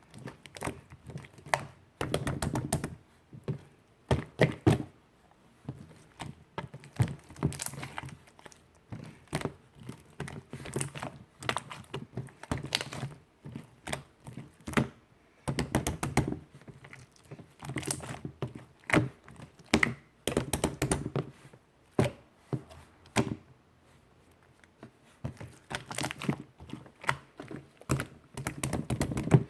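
Pink clear slime being pressed, stretched and folded, making sharp sticky clicks and pops in irregular runs.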